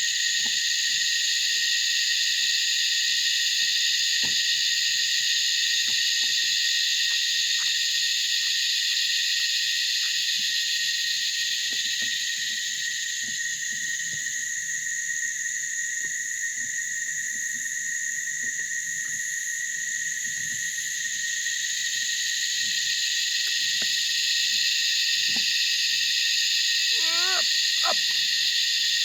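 Chorus of cicadas, an intense continuous high-pitched drone that eases slightly in the middle and swells again. A short wavering call shows briefly near the end.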